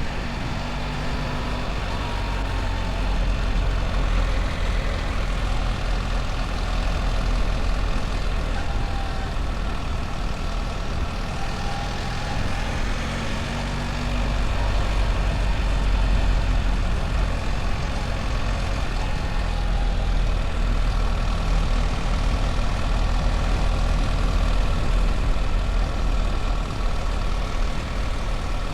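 BMW R1300 GS motorcycle being ridden: its boxer-twin engine runs with a steady low rumble under a broad rush of wind and road noise.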